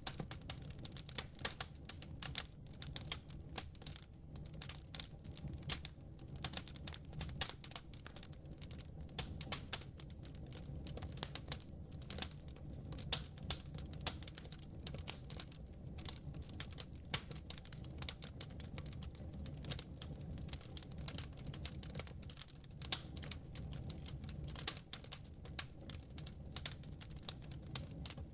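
Wood fire crackling: dense, irregular pops and snaps over a steady low rumble of burning.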